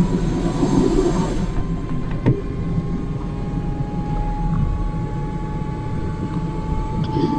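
Airbus AS350 B3 helicopter's turbine and rotor running steadily, heard from inside the cockpit as a dense rumble with a steady high whine. A single sharp click comes about two seconds in.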